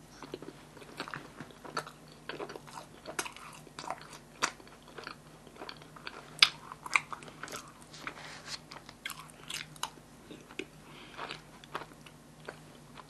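Close-up chewing and mouth sounds of someone eating yakgwa (honey cookie) with vanilla ice cream: scattered soft clicks and smacks over a faint low hum.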